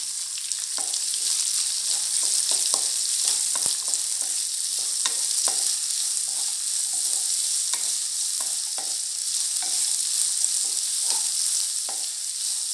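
Sliced onions, green chillies and whole spices sizzling in ghee in a kadai, with a steady hiss. A wooden spatula stirs them, scraping and knocking against the pan in irregular strokes about once or twice a second.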